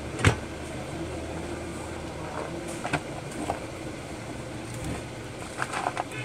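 A sharp click shortly after the start, then a few lighter clicks and taps, with a small cluster near the end, from small parts and tools being handled on a workbench. Under them runs a steady background hum.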